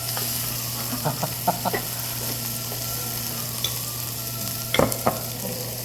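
Beef sizzling on a tabletop barbecue grill: a steady frying hiss. A few sharp clicks come about a second in, and a louder pair of knocks near the end.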